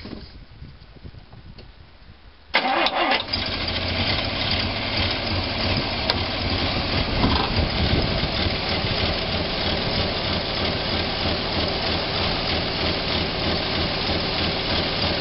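Vanden Plas Princess 4 Litre R's Rolls-Royce 4-litre six-cylinder petrol engine started about two and a half seconds in, catching almost at once and settling into an idle with a steady pulse. It is missing on one cylinder, running on five.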